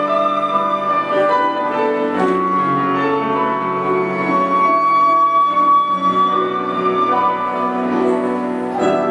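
A Chinese bamboo flute melody over piano accompaniment. The flute holds one long high note through the middle of the passage while the accompaniment moves underneath.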